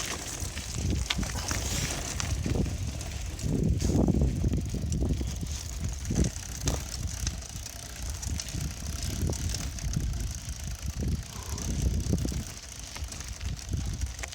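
Bicycle riding noise: an uneven low rumble with irregular bumps and knocks as the bike rolls over the ground, loudest about four seconds in.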